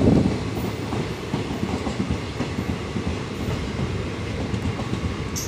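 Passenger train coaches rolling past close by, their wheels clattering over the rails in a steady rumble. It is loudest at the very start and eases slightly within the first half second.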